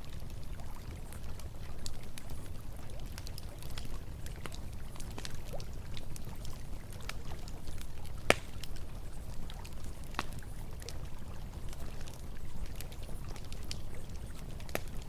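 Campfire crackling with scattered pops, one louder crack about eight seconds in, over the steady rush of flowing river water.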